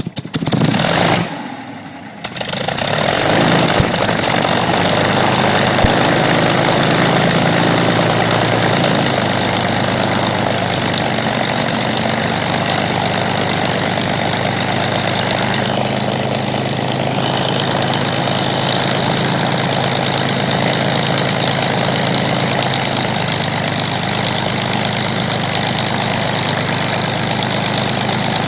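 Spitfire's V12 aero engine starting: a loud burst of firing in the first couple of seconds, a brief dip, then the engine catches and runs steadily at idle.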